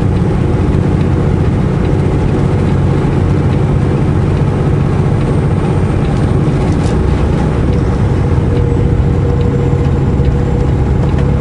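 Semi-truck's diesel engine running steadily under way, with road noise, heard from inside the cab: an even, constant low rumble with a faint steady hum above it.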